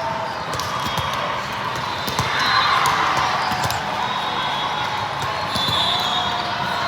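Volleyballs bouncing and being struck on a gym court, amid a crowd's chatter, with a swell of cheering about two seconds in.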